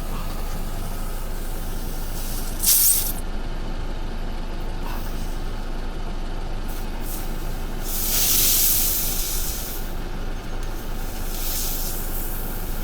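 Air hissing from a punctured car tyre in three short bursts over a steady hum: the tyre is being plugged and still leaks.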